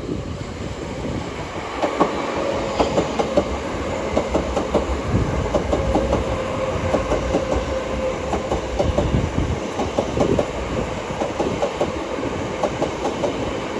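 A pair of Southeastern Class 376 Electrostar electric multiple units running along the track, their wheels clicking over the rail joints in a fast, irregular clatter, with a steady tone underneath for most of the time.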